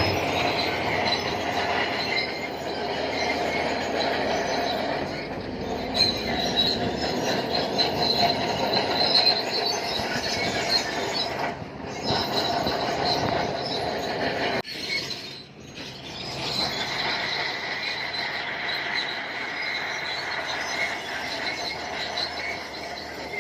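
Bulldozer working, its steel crawler tracks squealing steadily over the engine noise. The sound dips briefly about two-thirds of the way through, then carries on.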